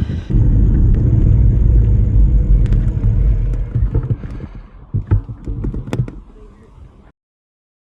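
Low rumble of wind buffeting the microphone and road noise from riding an e-bike, with a few clicks and knocks. It fades over the last few seconds and cuts off abruptly about seven seconds in.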